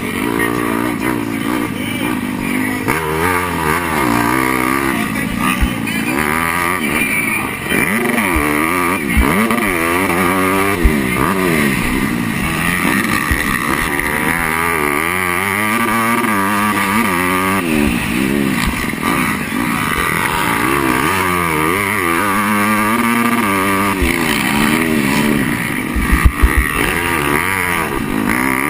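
Motocross bike engine heard close up from an on-board camera, revving up and falling back again and again through the throttle and gear changes, with a cluster of sharp knocks near the end.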